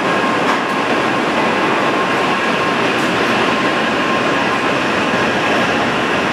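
Shinkansen bullet train rolling past along the platform, a steady, even noise of the cars going by.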